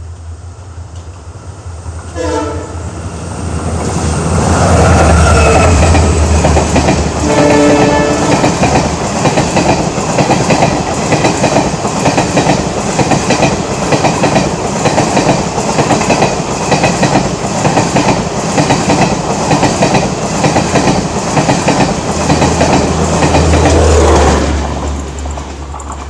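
A diesel locomotive hauling a passenger train passes at speed. It sounds two short horn blasts about five seconds apart, with the engine's low drone as it goes by. Then comes a long, fast, rhythmic clatter of coach wheels over the rail joints, which fades near the end.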